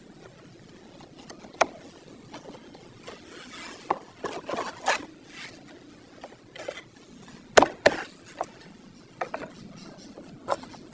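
Irregular clicks and knocks of parts and hand tools being handled in a workshop, with a short rattly cluster about halfway and two sharp knocks close together a little later.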